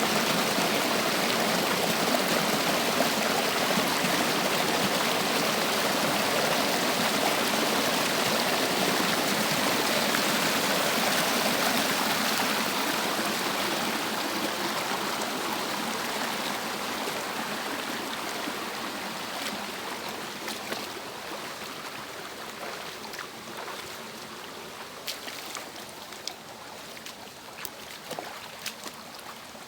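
Water rushing down a small cascade, a steady even rush that grows gradually quieter over the second half, with single splashes and drips standing out near the end.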